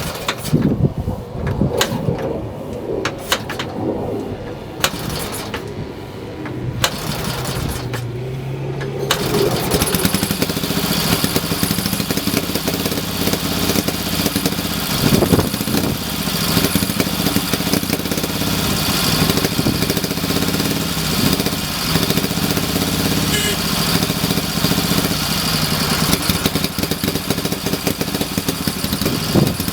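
Ural M-62 motorcycle's K-750M flat-twin engine being started after years of standing unused: a few sharp knocks and brief firings, then it catches about nine seconds in and keeps running steadily. The engine is running unevenly.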